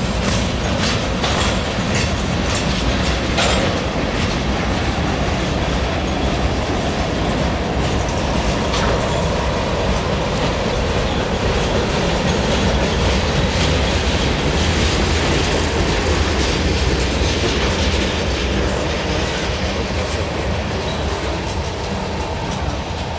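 Cars of a long CSX mixed manifest freight train rolling past close by: a steady rumble of steel wheels on rail, with clickety-clack over the rail joints, sharpest and most frequent in the first few seconds.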